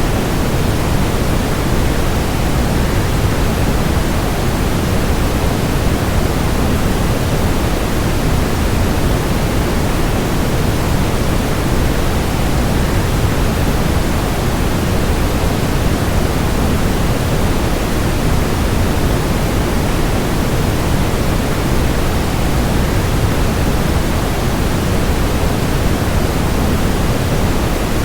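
Steady, unchanging rushing noise of a waterfall blended with white noise, heaviest in the low end.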